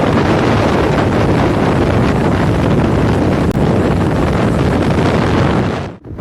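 Wind buffeting the microphone on a moving motorcycle, with the bike's running noise underneath. It cuts out briefly near the end, then returns.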